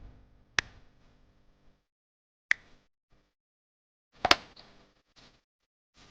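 Three sharp knocks, roughly two seconds apart, the last the loudest, with a faint hum under the first.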